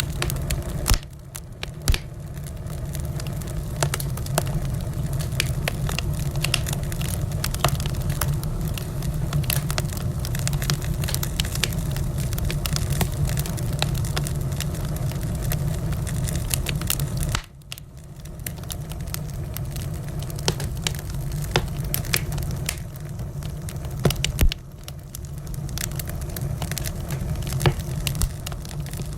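Wood fire crackling in a fireplace: frequent sharp pops and snaps over a steady low rumble of the flames. The rumble drops away abruptly a few times and then returns.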